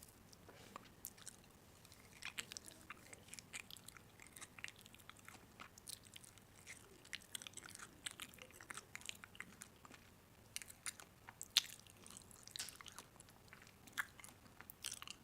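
Close-up eating of a crunchy snack: crisp bites and chewing, an irregular run of small crunches and clicks.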